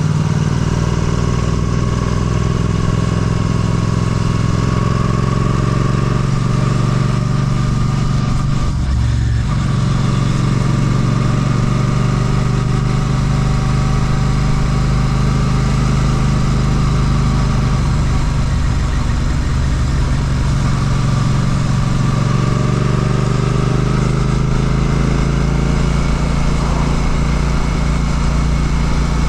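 Royal Enfield Classic 650's parallel-twin engine running through an aftermarket Ngage exhaust while the bike is ridden. The engine note briefly drops away about nine seconds in, then rises in pitch later on.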